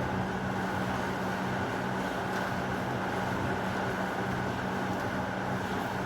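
Steady heavy rain, an even hiss with a low steady hum beneath it and no thunderclap.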